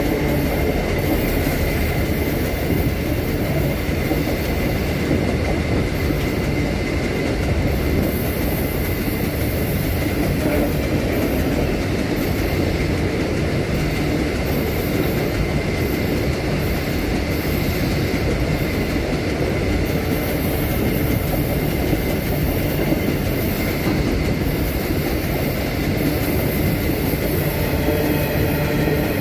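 Freight train of empty wagons rolling past close by: a steady rumble and clatter of wheels on the rails, with a thin, steady high whine from the wheels.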